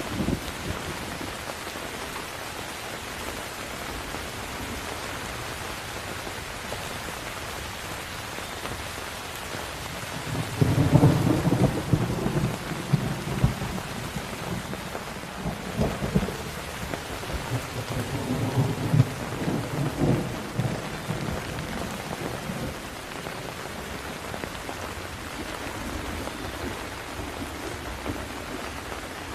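Steady heavy rain with a long roll of thunder rumbling from about ten seconds in, loudest at its start and surging again a few times before it fades back into the rain.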